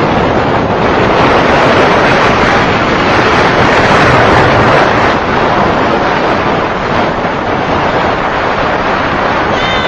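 Wind buffeting the microphone: a loud, steady rushing noise with no clear engine note.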